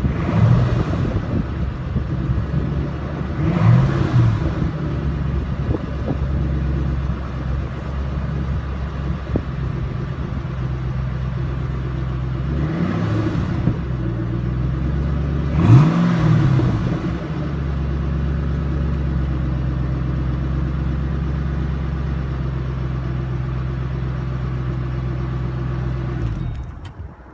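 2009 Mustang GT's 4.6-litre V8 exhaust idling, blipped in four short revs in the first sixteen seconds, the last the loudest, then idling steadily until it drops away near the end.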